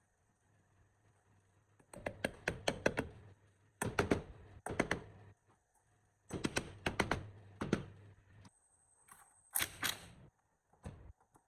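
Quick runs of sharp taps or knocks, several strokes per run, in three groups about two seconds apart, then a few scattered hits near the end.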